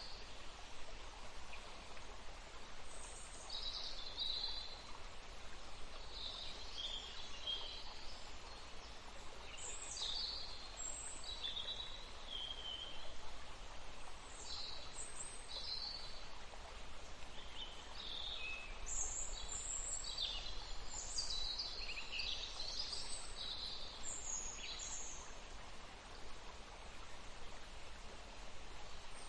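Several songbirds singing and chirping over a steady outdoor hiss: short, high trills and calls overlapping throughout.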